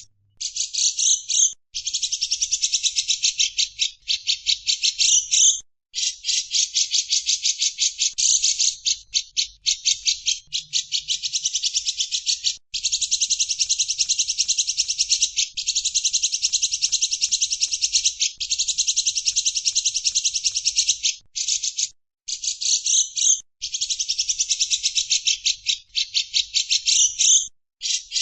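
A bird's rapid chattering call: long runs of fast, evenly repeated chirps, broken by short gaps every few seconds.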